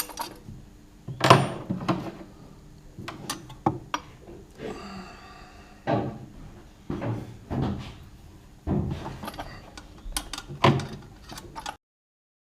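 Irregular knocks and metallic clanks of tools and engine parts being handled during hand work on a Jaguar 3.8 engine, with a brief ringing tone about five seconds in. The sound cuts off suddenly near the end.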